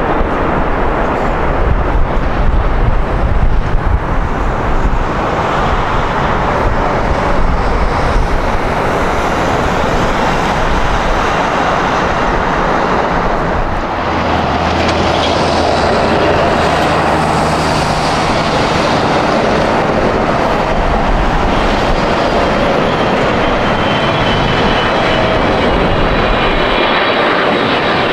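Jet airliner engines running loud and steady as an aircraft passes close. About halfway through, the sound changes: a steady low hum comes in, with a faint high turbine whine above it.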